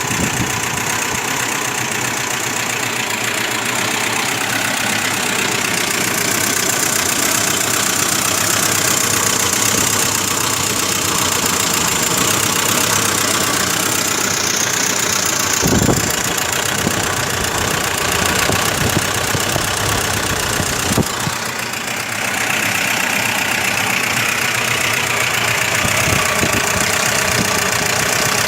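GAZ-2410 Volga's ZMZ-402 four-cylinder petrol engine idling unevenly, a sign of a running fault the owner is trying to find. Two sharp knocks come partway through, and the sound sags briefly before steadying again.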